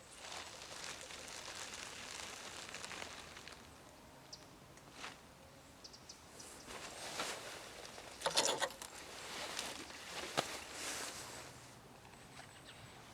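Rustling and handling noises from camping gear being set up, with a few sharp knocks, the loudest about two-thirds of the way in.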